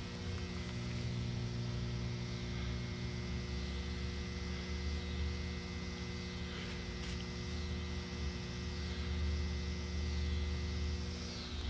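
Electrical utility box in the woods giving off a steady low electrical hum at mains frequency, with several higher overtones over it.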